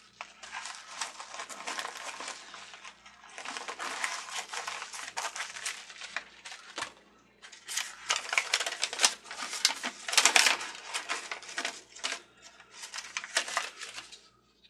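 Plastic packaging crinkling and rustling as it is handled and worked open, in several bouts with short pauses.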